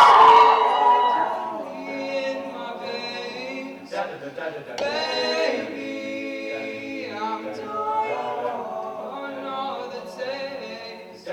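A cappella vocal group singing a pop song in several-part harmony with no instruments, a low voice holding a bass line beneath the melody. The loudest note comes at the very start and dies down within about a second.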